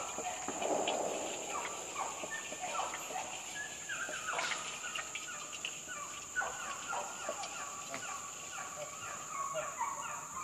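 Birds calling over and over in short, falling notes, with a steady high-pitched whine underneath throughout.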